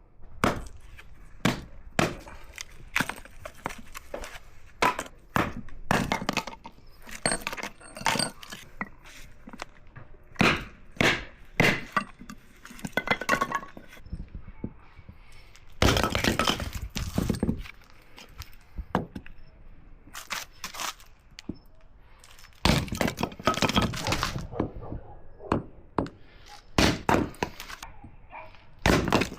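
Hatchet chopping and splitting firewood: repeated sharp blows into the wood at irregular intervals, with two longer stretches of cracking as pieces split apart.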